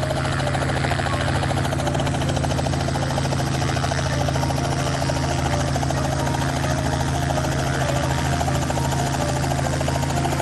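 Helicopter rotor and engine running steadily in flight, with a fast, even rotor beat.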